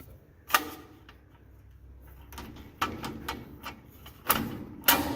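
Scattered knocks and clicks of parts being handled and held up against a metal truck dash while a switch panel is test-fitted, about six in all, the loudest two near the end.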